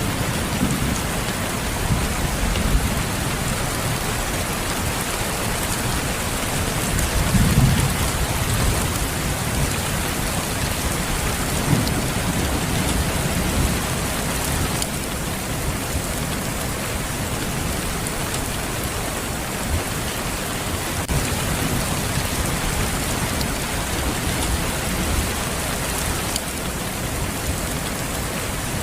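Steady rain, a dense even hiss, with low rumbles of thunder swelling up a few times, the strongest about seven to eight seconds in and another about twelve seconds in.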